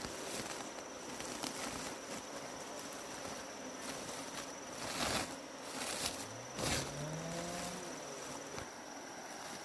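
Steady high-pitched insect drone over outdoor background noise, with a few short rustling knocks midway and a distant motor rising in pitch in the second half.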